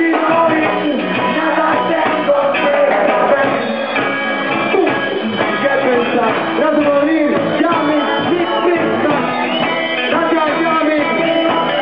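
Live reggae band playing.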